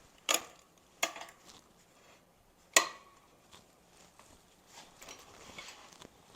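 Steel parts and tools being handled on a metal workbench: three sharp metallic clanks, the third the loudest, with a few lighter knocks and shuffling after.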